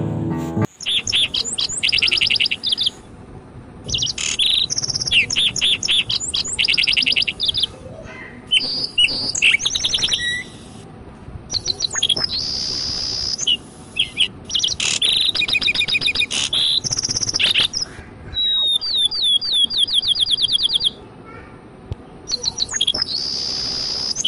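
Bird song: phrases of rapid, high chirping notes and trills, one to three seconds each, separated by short pauses.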